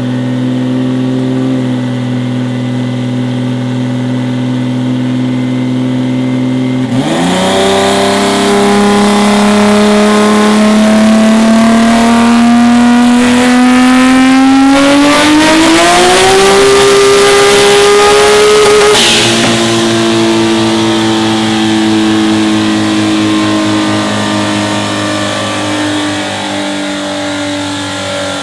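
Turbocharged BMW M3 drag car engine doing a wide-open-throttle dyno pull. It runs steadily at first. About a quarter of the way in the throttle opens and the revs climb, faster toward the top, then hold near 8,000 rpm for a couple of seconds before the throttle closes with a brief rush of air, and the engine winds down slowly.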